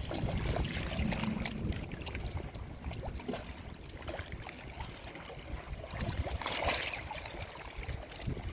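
Sea waves washing on the shore, a louder wash of surf surging about six and a half seconds in, over a steady low rumble.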